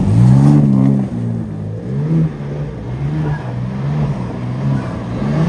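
BMW M3 (G80) twin-turbo 3.0-litre straight-six revving up and down in waves about once a second while the rear-wheel-drive car does donuts on snow.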